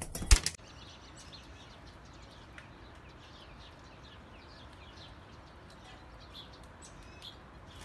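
A sharp knock and clatter in the first half second, then the sound cuts to faint birdsong: many short, high chirps throughout.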